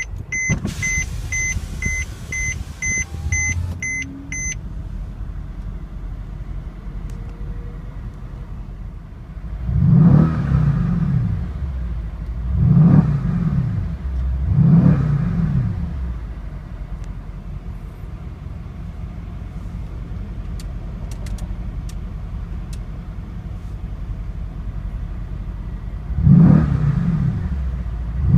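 Mercedes-Benz E63 AMG S-Model's twin-turbo V8 idling just after start-up, with a repeating electronic chime beeping for the first four seconds or so. The engine is revved three times, about ten, thirteen and fifteen seconds in, settles back to idle, and is revved again near the end.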